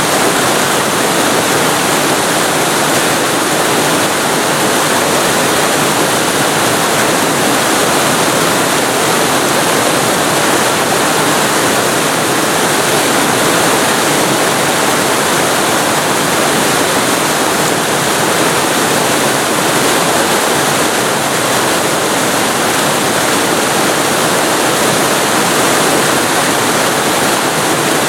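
Waterfall recorded very close to the falling water: a loud, steady, even rush of water.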